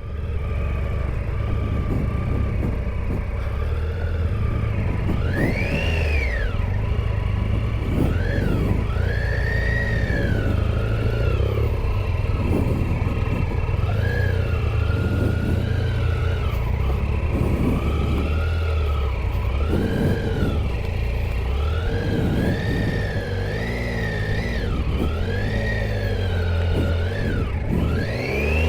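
Triumph Tiger 800 XCa motorcycle's three-cylinder engine running while riding, its revs rising and falling over and over with the throttle, over a steady low rumble.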